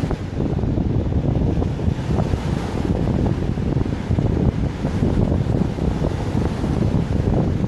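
Wind buffeting the microphone in a continuous, uneven low rumble, with sea waves beneath it.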